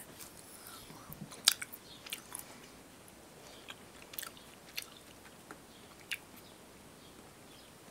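A person chewing soft chewy candy: faint, irregular mouth clicks and smacks, the loudest about a second and a half in.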